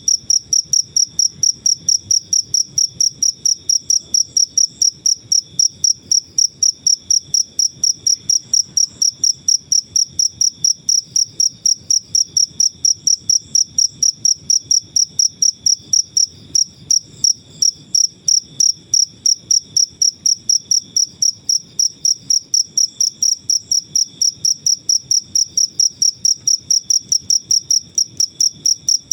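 A cricket chirping steadily, a high-pitched even trill repeated about four times a second without a break.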